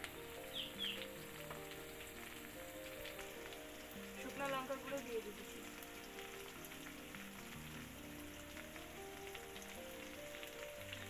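Hot oil sizzling steadily as sliced onions fry, with soft background music underneath. A brief run of high chirps comes about four seconds in.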